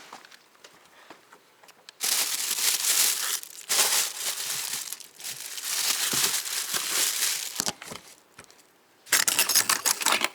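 Rustling and crinkling close to the microphone in two spells: a long one from about two seconds in until nearly eight seconds, and a shorter one near the end.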